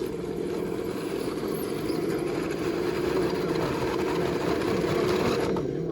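Electric motor and geared drivetrain of a 1/10-scale RC rock crawler whirring steadily as it drives, its pitch wavering slightly with the throttle.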